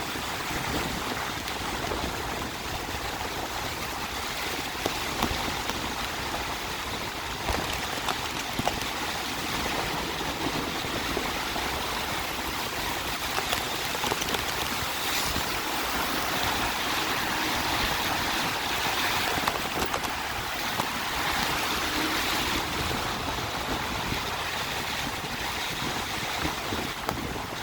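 Steady watery hiss of a Kugoo electric scooter riding through rain on a wet road, with wind rumbling on the microphone and a few brief knocks.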